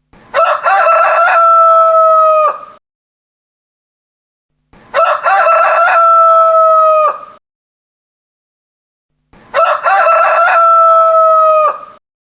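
Rooster crowing three times, about four and a half seconds apart, the crows identical. Each crow starts with short broken notes and then holds one long note that drops off at the end.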